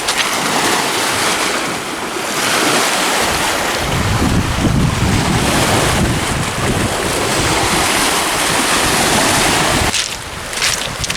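Wind buffeting the microphone while lake waves wash on the shore, a steady rushing noise; a gust adds a deep rumble from about four seconds in until shortly before the end.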